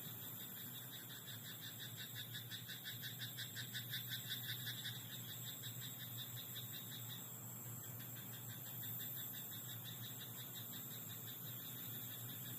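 Frogs calling in a rice paddy: one frog's rapid croaking, about five pulses a second, swells for a few seconds and stops about five seconds in, over a steady background chorus.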